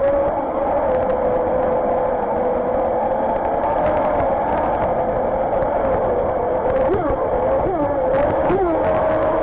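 Radio-controlled jet boat's motor and water-jet drive running at speed, heard from on board: a steady high whine over rushing, splashing water. Near the end the whine dips in pitch and comes back up several times in quick succession.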